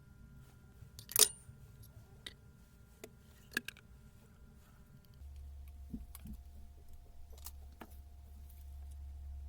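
Small metal parts being handled during a power-tool repair: a few sharp clicks and clinks, the loudest about a second in. A steady low hum starts about five seconds in.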